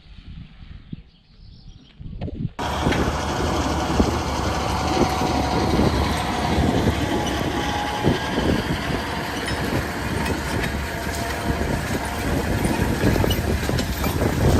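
A tractor running steadily with a constant low engine drone and a lot of rattling and clattering. It cuts in suddenly at full level a little over two seconds in, after a quieter stretch.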